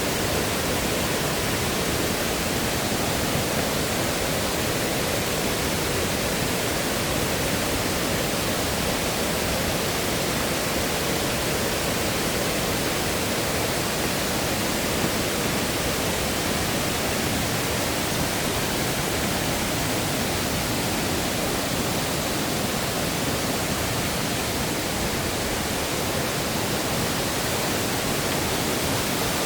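Rushing water of a mountain valley stream or waterfall, a steady even hiss with no change in level.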